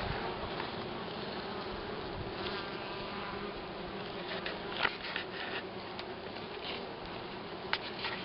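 Many honeybees buzzing together in a steady, dense hum around the hive, with a few short clicks.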